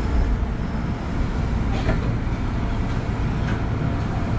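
Kintetsu electric commuter train running slowly, heard from inside the driver's cab: a steady low rumble of wheels and motors, with two short clicks about two and three and a half seconds in.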